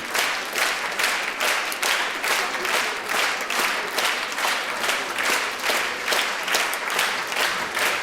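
Theatre audience applauding, the clapping falling into a steady rhythm of about three claps a second.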